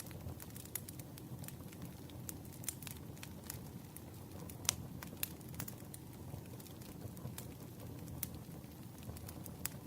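Campfire crackling: a steady low rumble of burning wood with frequent irregular sharp pops, one louder pop about halfway through.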